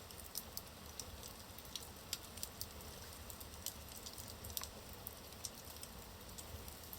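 Wood fire burning in a fireplace: logs crackling and popping with irregular sharp snaps, over a soft steady hiss.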